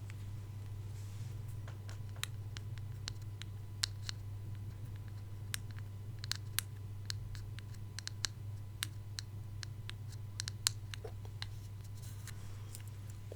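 Close-miked ASMR mouth sounds: irregular, sharp little clicks and smacks, a couple of dozen scattered across the stretch, over a steady low hum.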